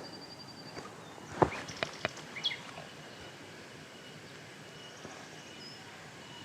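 A few sharp knocks between one and a half and two and a half seconds in, the first the loudest, over a steady outdoor background hiss, with a few faint bird chirps.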